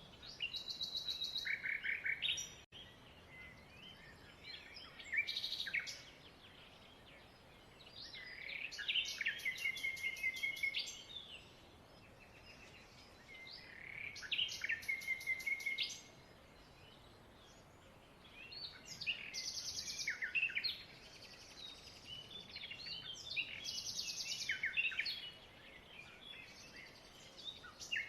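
Small birds chirping and singing in rapid trills. The song comes in bouts of one to three seconds every few seconds, with a quiet background between them.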